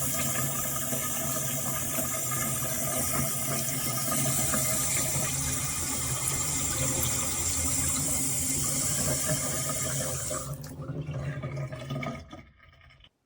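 Water from a waterfall-spout single-lever basin mixer tap running steadily into a bathroom sink, then dying away about ten seconds in as the flow is shut off.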